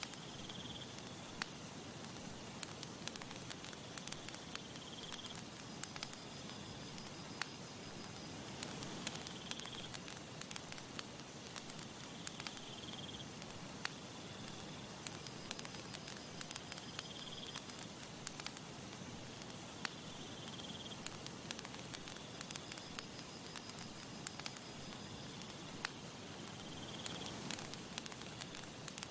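Wood campfire crackling with frequent small sharp pops over a soft steady hiss. High, insect-like trills recur every few seconds behind it.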